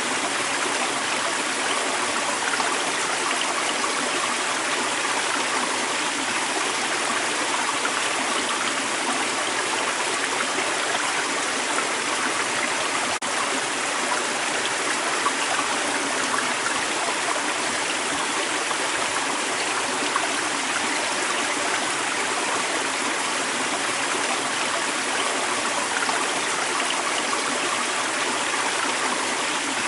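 Creek water running over rocks: a steady, even rush with small gurgles and trickles throughout, and one faint click partway through.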